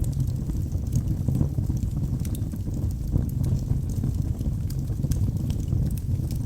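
Wood logs burning in a fireplace: a steady low rush of flame with frequent small crackles and pops scattered through it.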